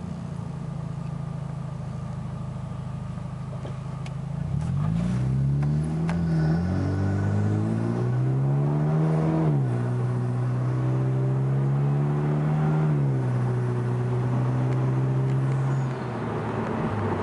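2013 Hyundai Genesis Coupe's 2.0-litre turbocharged four-cylinder through a Magnaflow cat-back exhaust, heard inside the cabin with the windows up: a steady low hum at first, then about four seconds in the car accelerates hard and the engine note climbs, falling back at each of three upshifts. The exhaust tone is deep, without drone.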